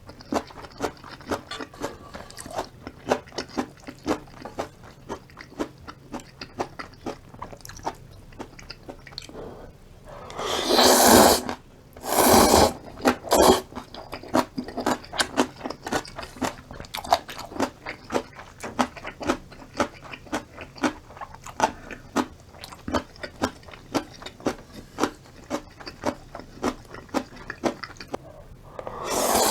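Close-miked eating of ramen with kimchi: steady chewing and crunching, broken by three loud slurps of noodles about a second long each, two close together around ten to twelve seconds in and one at the end.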